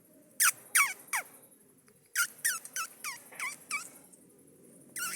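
A ginger cat meowing over and over in short, high, falling cries: three, then a quick run of about six, then two more at the end. It is the plaintive crying of a cat making a fuss about getting down from a height.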